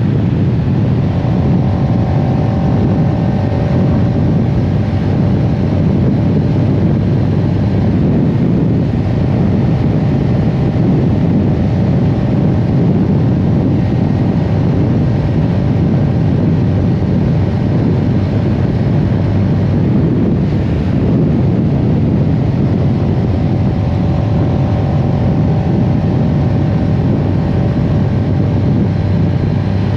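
CFMoto CL-X 700 Heritage's parallel-twin engine running at a fairly steady speed, with no big revs.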